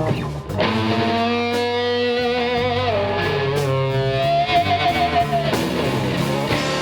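Electric blues band playing a slow blues: an electric guitar plays a lead fill of held notes with vibrato between sung lines, over bass and drums.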